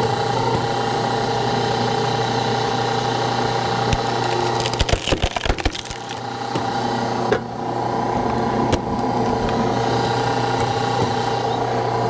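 Hydraulic log splitter running steadily under power. About five seconds in comes a quick run of cracking as a log splits, then a couple of sharp knocks.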